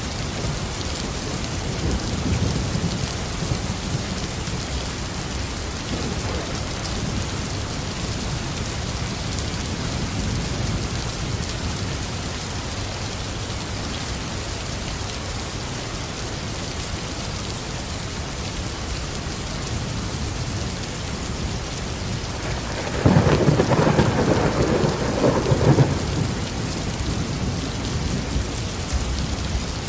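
Steady heavy rain with rolling thunder: low rumbles swell and fade in the first half, and a louder, sharper thunderclap breaks about two-thirds of the way through, lasting about three seconds.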